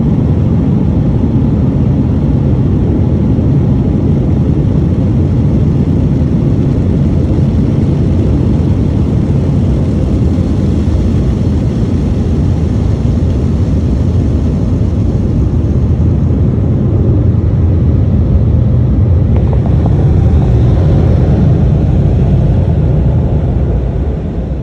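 Automatic car wash equipment working over the car, heard from inside the cabin: a loud, steady, deep roar that swells a little near the end and then begins to die away.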